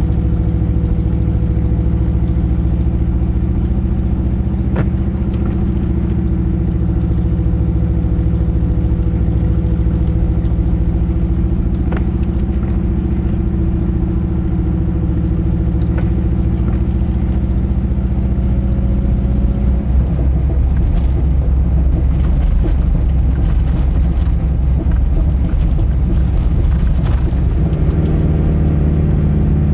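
Subaru Leone's flat-four boxer engine running steadily with its low, uneven burble. About two-thirds of the way through it grows louder and rougher for several seconds, then settles back to a steady note near the end.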